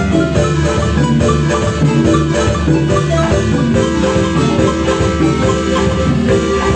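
Marimba music: a Chiapas-style marimba playing quick mallet notes over a low bass line.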